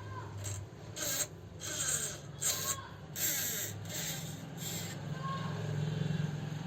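About seven short rasping or scrubbing strokes in quick, uneven succession, over a steady low hum; the strokes stop about five seconds in.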